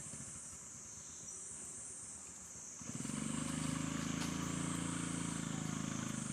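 Insects buzzing steadily in a high, pulsing chorus. About three seconds in, a motor engine starts running with a low, steady hum.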